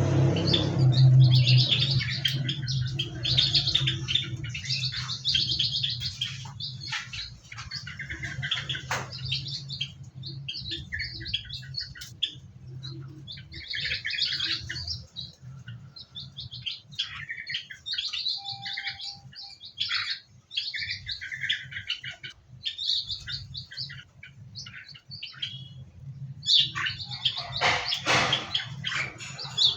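Many small aviary birds chirping and twittering, with short high calls overlapping almost without pause.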